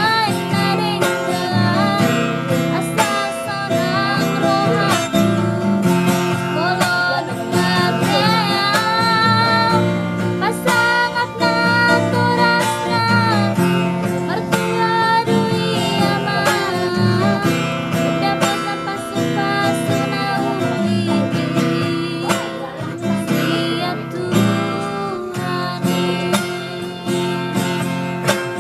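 Song with strummed acoustic guitar accompaniment and a wavering sung melody line over it.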